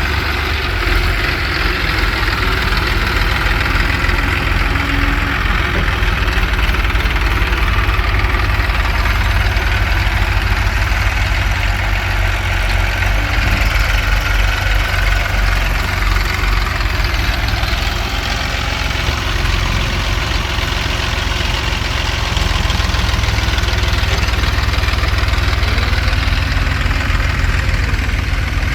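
Heavy diesel engines of a tractor and a JCB loader running steadily at idle, with a low, rapid throb.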